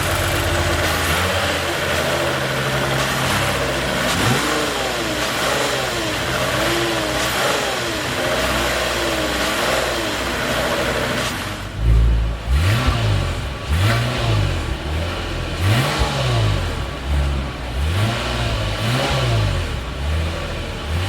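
A 2021 Lexus IS 300 AWD's 3.5-litre V6 engine runs steadily for about ten seconds. From about twelve seconds in it is revved in a series of quick blips, its pitch rising and falling each time.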